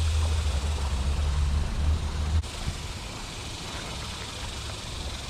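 A loud low rumble that cuts off abruptly about two and a half seconds in, over a steady hiss.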